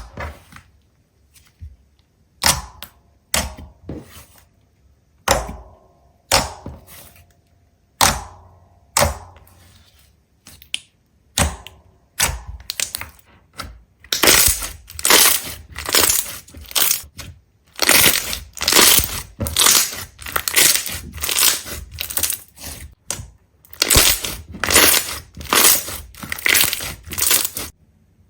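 A run of sharp cracks and crunches, spaced out at first, then coming thick and fast from about halfway through: brittle material being broken or crushed.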